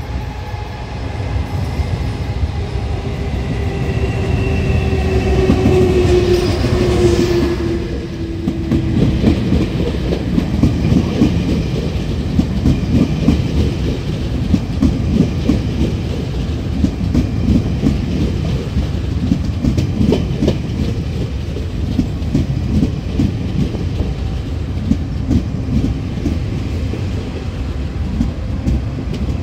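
Electric locomotive passing close by as the express train arrives at a station, its whine falling in pitch and loudest about six seconds in. After that the passenger carriages roll past with a low rumble and a long run of wheel clacks over the rail joints.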